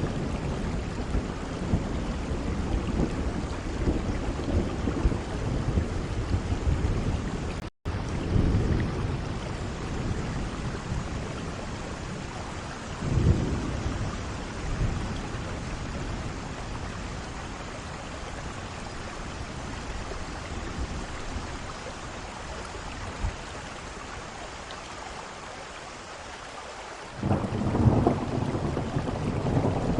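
Steady heavy rain with rolling thunder rumbling under it. The sound cuts out for an instant about eight seconds in. A thunder peal breaks about thirteen seconds in, the rain then runs calmer and quieter, and heavy thunder rumbles in again suddenly near the end.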